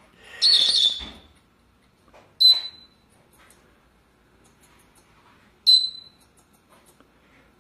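Senegal parrot calling: a harsh squawk about half a second in, then two short, sharp high whistles a few seconds apart, each dropping quickly in pitch.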